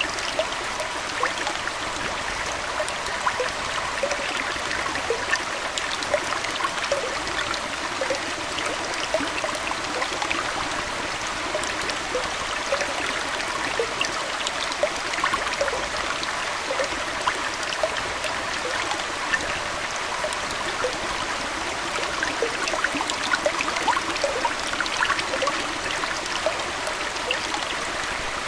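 Aquarium water trickling and splashing steadily, with many small plinks and drips scattered through the flow.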